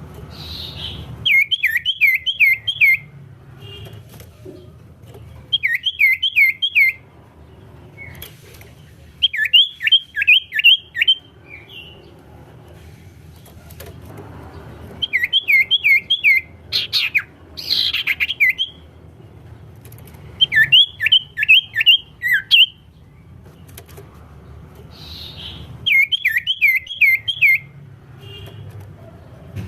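Common iora (cipow) singing: a phrase of five or six quick whistles, each sliding down in pitch, repeated every few seconds with thin high notes over them.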